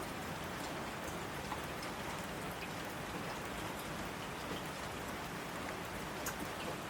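Steady rainfall: an even hiss with scattered sharp drop ticks.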